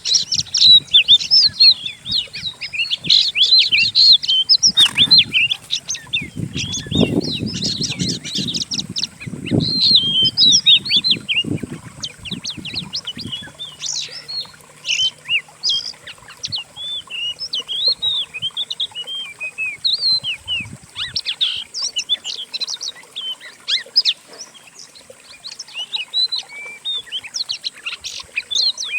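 Several songbirds singing together in a mixed bird-training recording: a dense, continuous stream of quick chirps and whistled notes. There is a sharp click about five seconds in and low rumbling under the song in the first half.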